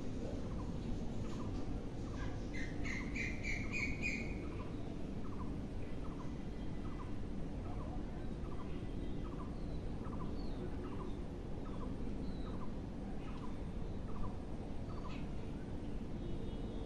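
Birds calling: a short chirp repeated evenly about every two-thirds of a second, and a brief, brighter trill about three seconds in, over a steady background hiss.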